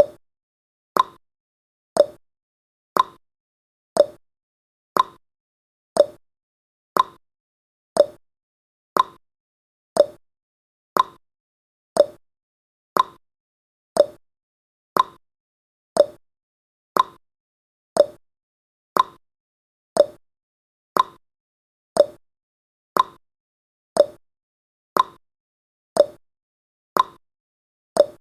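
Countdown timer's ticking sound effect: a short, sharp clock-like tick once every second, each with a brief ringing tail.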